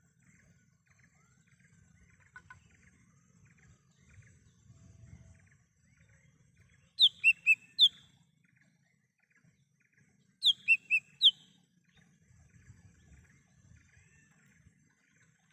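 Lesser green leafbird (cucak hijau mini) calling: two loud phrases of four sharp, quick whistled notes, about seven and ten and a half seconds in, over faint twittering of other birds and a low rumble.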